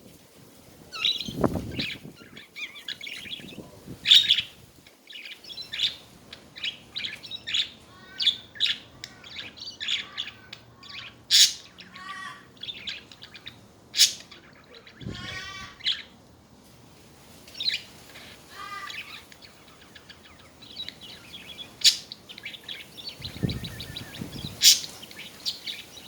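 Budgerigars chattering: a steady run of short chirps, fast warbling trills and sharp clicks, with a few low thumps.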